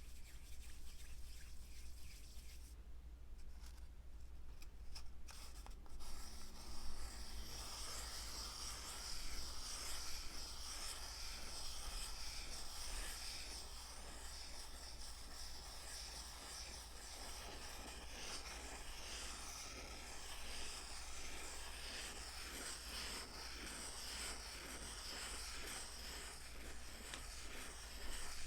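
Close-miked rubbing and scratching on an object, an ASMR trigger: sparse at first, then continuous from about seven seconds in, over a low steady hum.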